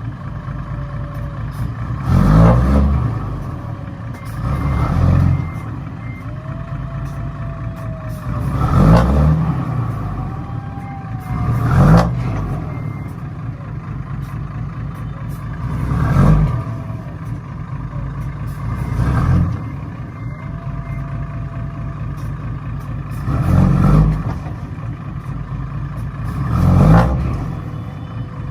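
Truck engine running steadily, with about eight louder swells a few seconds apart, each rising and then falling.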